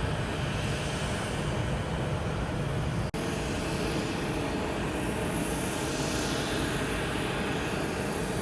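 Jet airliner engine noise from a Boeing 737-900, cut off abruptly about three seconds in and replaced by that of a Boeing 717-200, whose hiss swells and eases again around the sixth second.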